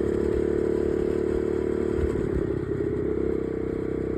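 Dirt bike engine running steadily while riding. Its note wavers and breaks up briefly around the middle.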